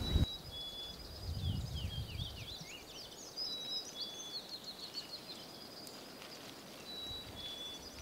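Several small songbirds chirping and calling together. A busy run of quick downward-sliding notes comes in the middle, with a few short, even whistled notes here and there, over a faint low rumble.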